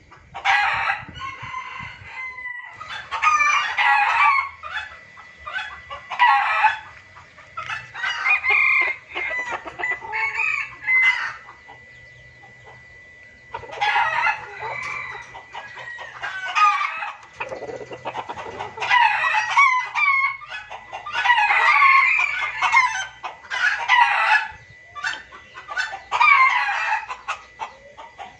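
Junglefowl calling in a rapid string of noisy clucking and cackling bursts, one after another with short pauses: a lure call recording used to draw in wild junglefowl.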